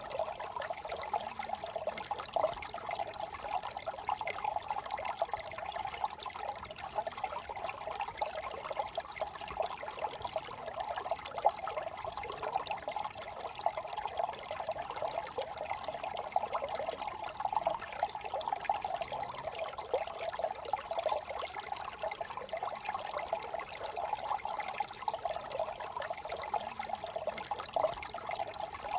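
Small brook trickling and babbling over stones, a steady flickering gurgle.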